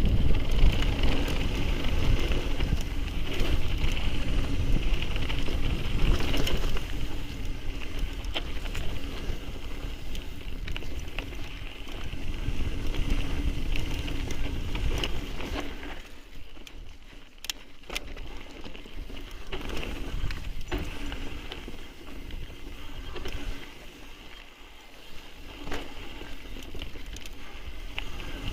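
Mountain bike riding down a rough trail: wind buffeting the microphone with a heavy rumble, tyre noise and sharp knocks and rattles as the bike goes over bumps. It gets quieter after about sixteen seconds, leaving scattered knocks.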